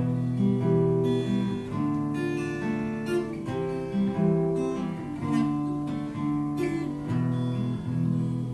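Acoustic guitar playing slow strummed chords without singing, each chord left ringing before the next.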